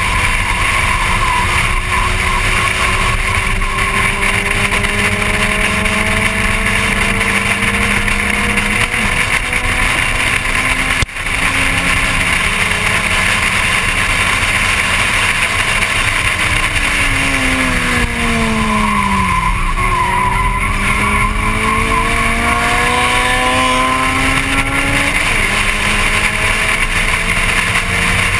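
Volkswagen Golf Mk1's 1.8-litre four-cylinder engine under racing load, heard on board: the engine note climbs steadily, falls sharply as the car slows about two-thirds through, then climbs again as it accelerates away.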